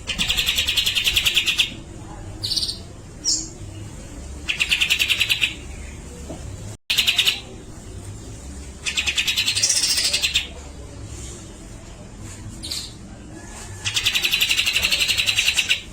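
Cucak jenggot (grey-cheeked bulbul) singing: four loud, rapid rattling trills, each about one to one and a half seconds long, with short high whistled notes between them. This is the fast chatter that bird keepers call 'besetan'.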